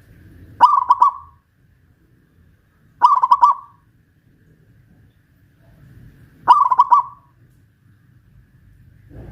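Zebra dove (perkutut) cooing: three short rolling phrases about three seconds apart, each a quick run of pulsed coo notes.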